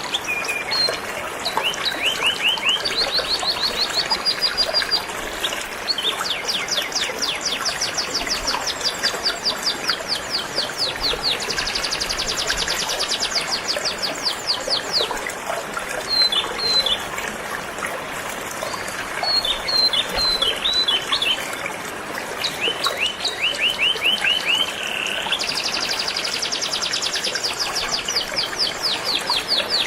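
Canary singing in fast trills of repeated high notes, phrase after phrase, over the steady rush of a flowing stream.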